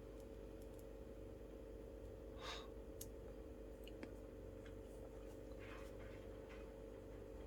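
Pen writing on paper in a few short scratchy strokes, with light clicks, over a steady electrical hum.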